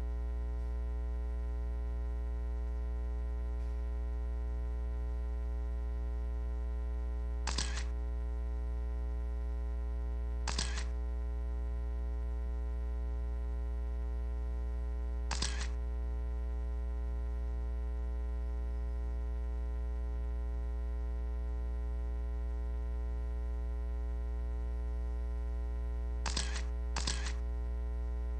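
Steady electrical mains hum on the line, broken by five short sharp clicks: three spread out, then two close together near the end.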